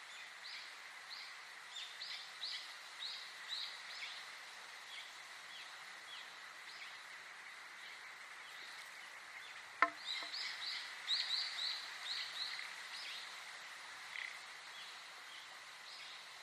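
Small birds chirping in runs of short, quick, falling high notes, one run in the first few seconds and a denser one after the middle, over a steady high-pitched tone and faint hiss. A single sharp click about ten seconds in is the loudest sound.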